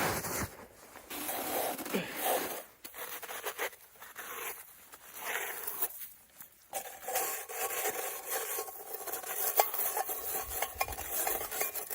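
Metal cooking pot being scraped and rubbed in irregular strokes as it is cleaned out and filled with icy snow. A faint steady ring from the pot comes in during the second half.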